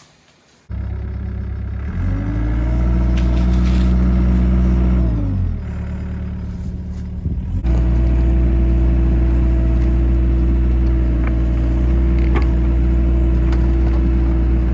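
Excavator diesel engine running. It comes in abruptly, revs up about two seconds in and drops back to a lower speed around the middle, then runs steadily at high revs. A few light clanks come near the end.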